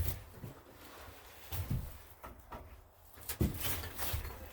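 Scattered knocks and light clatter of parts being handled around a garden tractor's engine, with a sharper knock about three and a half seconds in.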